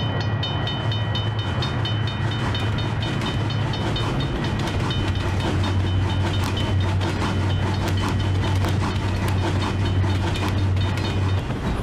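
Train sound effect: a passing train's steady rumble with wheels clicking over rail joints, and a level-crossing bell ringing in a regular beat over it. It all cuts off abruptly near the end.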